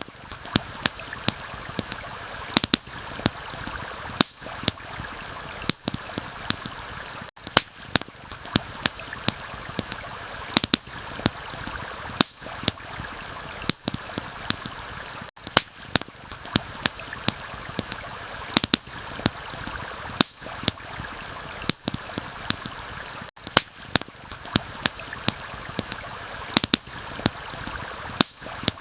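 Campfire crackling with many irregular sharp pops over the steady rush of a stream. The whole bed drops out briefly about every eight seconds.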